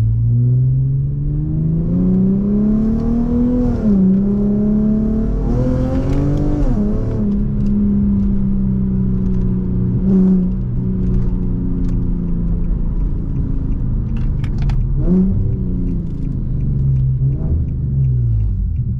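Infiniti G37x's V6 engine heard from inside the cabin, accelerating through the gears: the revs climb for about four seconds, drop at a shift, climb again and drop at a second shift about seven seconds in. The engine then holds a steady cruise before the revs fall away, with a short rise and fall around fifteen seconds in.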